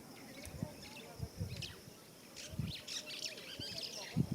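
Small birds chirping and twittering in the bush, with a quick busy run of high chirps about two and a half seconds in, over a faint steady high tone.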